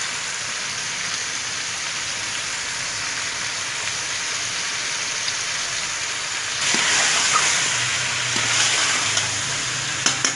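Desi chicken and masala frying (bhuna) in oil in a pot, a steady sizzle that grows louder about two-thirds of the way in, with a few light clicks near the end.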